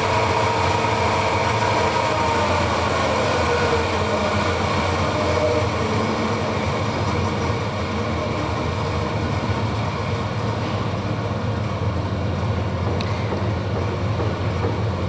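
DoAll ML-16 vertical band saw running with no cut, a steady mechanical rumble and hum. Its whine falls in pitch a few seconds in as the blade speed comes down from the fastest setting.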